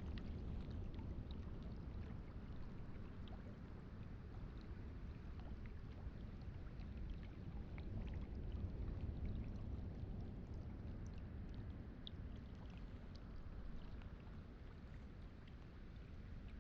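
Sea waves washing on a pebble shore: a low, steady rush with scattered small clicks of stones, easing a little in the second half.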